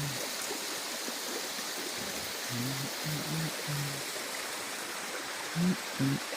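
Flowing stream water rushing steadily, with a few short low pitched notes of background music over it.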